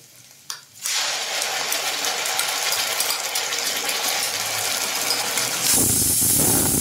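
Tomato paste with ginger, garlic and onion dropped into hot oil in a pan and sizzling: after a light click or two, a loud sizzle starts suddenly about a second in, then swells louder and fuller near the end.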